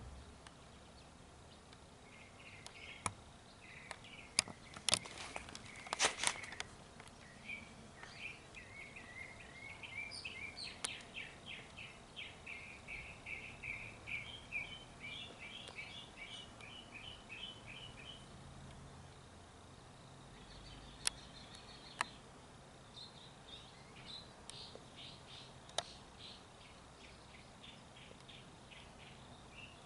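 Small bird chirping in quick runs of short repeated notes over quiet outdoor background noise, with a few sharp clicks, a cluster of them a few seconds in and more around two-thirds of the way through.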